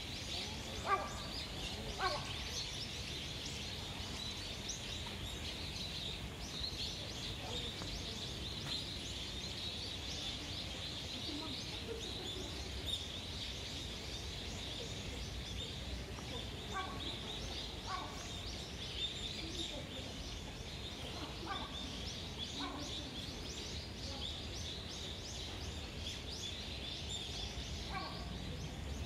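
Birds calling: a steady high chirping chorus, with a handful of louder, lower calls, in pairs about a second apart near the start and again further on, over a low steady background rumble.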